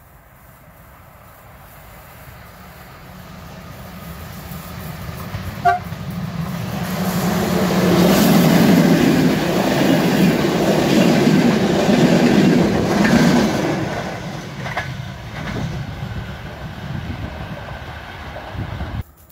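A train approaching and passing, growing steadily louder to a peak and then fading, with a rhythmic clatter of wheels over the rail joints as the cars go by. A short horn toot sounds as it draws near, and the sound cuts off suddenly near the end.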